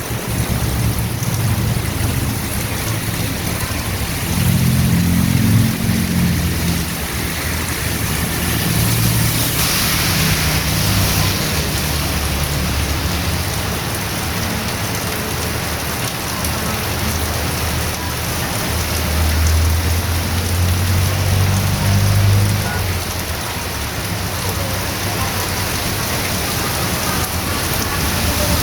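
Heavy rain falling steadily on a street, a dense even hiss. Low rumbles swell up twice, about five seconds in and again near twenty seconds.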